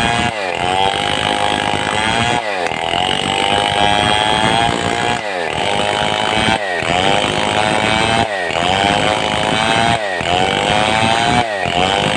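Stihl 070, a big two-stroke chainsaw, running at high revs while cutting a mahogany log into planks. Its engine note dips sharply and climbs back up every couple of seconds as the chain bites and recovers in the cut.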